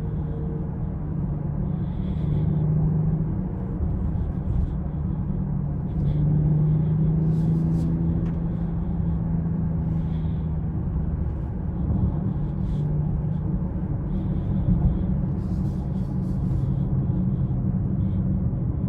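2020 BMW X6 40i on the move: a steady low rumble of road and engine noise, with the engine's hum shifting in pitch a few times as speed changes.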